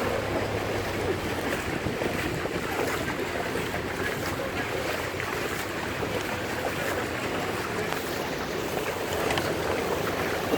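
Steady rushing noise of a vehicle moving through floodwater, with wind on the microphone.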